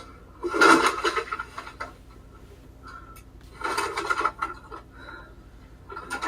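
Household objects being handled and moved about: two spells of rustling and clattering, one about half a second in and one near four seconds in, with a few lighter knocks between.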